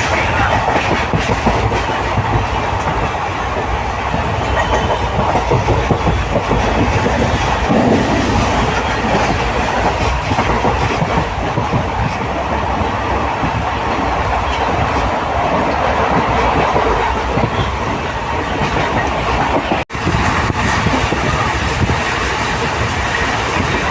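Passenger train running along the line, a steady noise of wheels on the rails, briefly cutting out about twenty seconds in.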